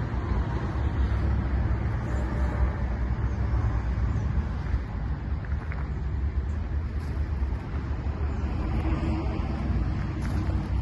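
Scania G 420 truck's diesel engine idling, a steady low rumble.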